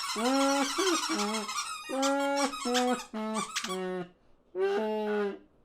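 Cartoon small birds chattering in wordless, squeaky voices: a quick run of short pitched calls, a brief pause about four seconds in, then one last call.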